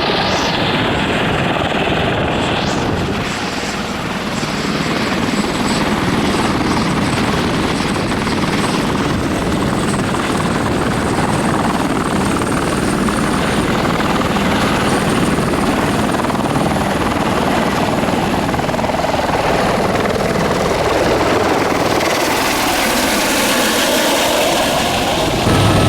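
Steady, loud engine and propeller noise of a tour aircraft in flight, with no change in pitch.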